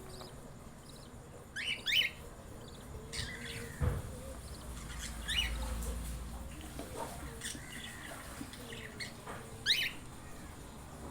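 Budgerigars giving short, sharp squawking chirps every few seconds, with a low thump about four seconds in followed by a brief low rumble.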